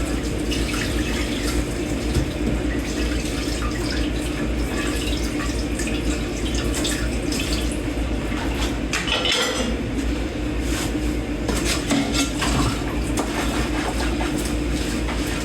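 Tap water running into a kitchen sink while dishes are washed by hand, with scattered clinks of dishes against each other.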